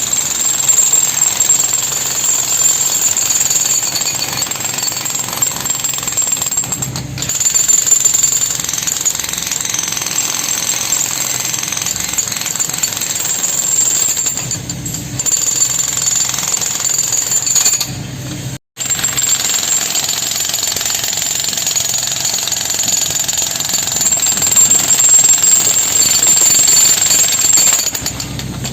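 Handheld breaker hammer (jackhammer) chipping concrete from the head of a bored pile. It hammers continuously, with a few brief pauses.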